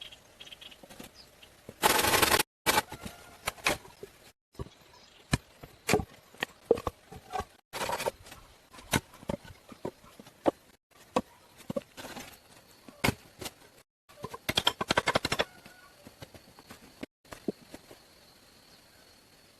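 A series of sharp knocks and clicks, with two louder bursts of rapid clattering, about two seconds in and again near three quarters through, broken by several abrupt cuts to silence.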